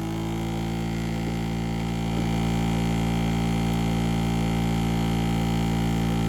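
Electric knife-and-scissor sharpening machine running with a steady motor hum, the blade off the wheel so there is no grinding hiss.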